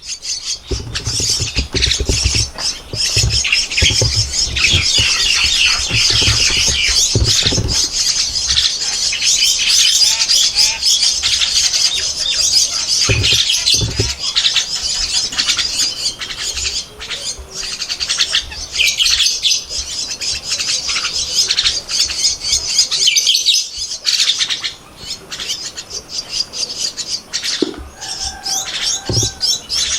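Javan myna nestlings giving rapid, shrill begging calls, a dense run of chirps that goes on almost without pause, with a short lull about two-thirds of the way through. Low bumping and rustling sounds are mixed in during the first half.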